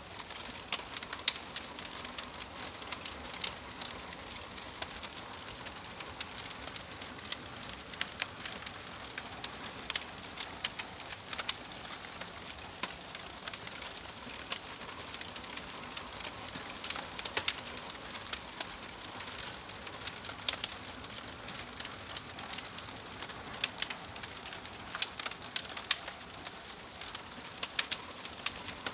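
Crackling fire: a steady soft hiss with frequent irregular sharp pops and snaps.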